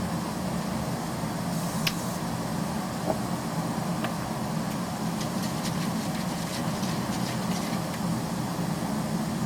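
A wood fire burning hard in a metal bin burner under forced draught, with a steady roar of fire and air and a few sharp crackles from the burning pallet wood.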